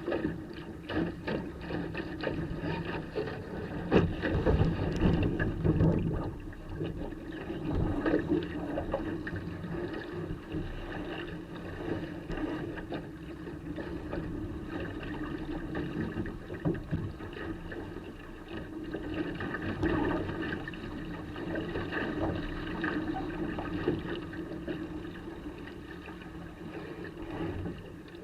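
Water rushing and splashing along a sailing dinghy's hull under way in a fresh breeze, with wind buffeting the microphone. It surges louder about four to six seconds in and again around eight seconds.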